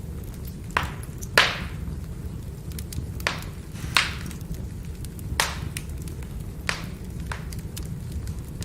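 Wood fire burning, with a steady low rumble of the flames and about seven sharp crackling pops of the burning logs, the loudest about a second and a half in.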